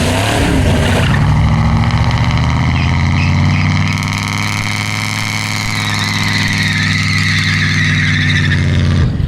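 A car engine held at high revs, loud and steady for several seconds before easing off near the end.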